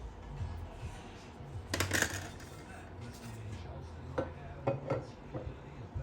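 Clinks and knocks of metal tools and engine parts being handled on a workbench, the loudest about two seconds in and a few sharper clicks between four and five seconds.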